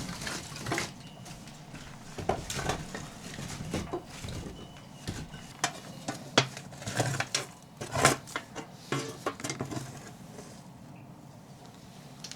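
Irregular light clicks and knocks of objects being handled, with a few sharper clinks in the middle.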